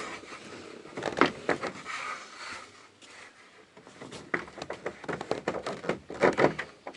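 Irregular scraping and knocking of a jammed interior panel being worked loose by hand, in a few clusters with quieter stretches between.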